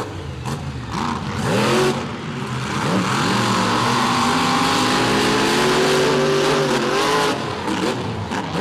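Monster truck engine revving hard, its pitch rising and falling several times, then held high for a few seconds before easing off near the end.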